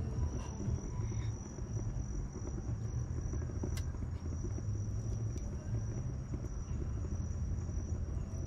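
Wood bonfire burning: a steady low rumble with a few sharp crackles and pops from the wood, under a continuous high, thin cricket-like trill.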